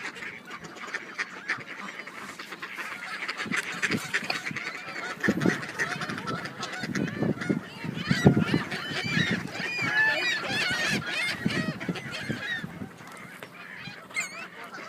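A flock of geese honking, many calls overlapping, loudest and busiest in the middle and thinning out near the end.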